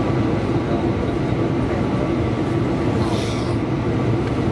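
A Tobu electric train running at speed, heard from inside the passenger car as a steady low rumble, with a brief hiss about three seconds in.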